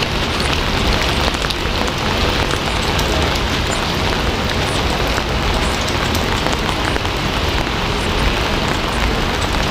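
Steady, heavy rain falling, a dense even hiss with many small drop ticks in it.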